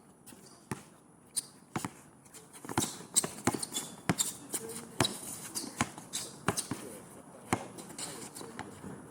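Basketball bouncing on a hard court during play: a run of sharp, irregularly spaced thuds that come more often from a couple of seconds in.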